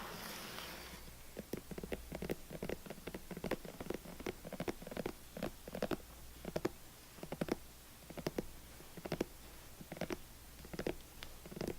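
ASMR fingertip tapping on an object: many short, sharp taps several a second in uneven flurries, after about a second of scratching at the start.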